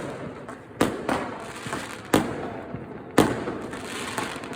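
Fireworks and firecrackers going off: a sharp bang roughly every second, with crackling between the bangs.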